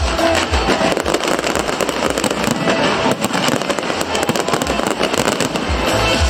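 Aerial fireworks going off in quick succession, a dense crackle of bursts and bangs, over loud music with a heavy bass beat.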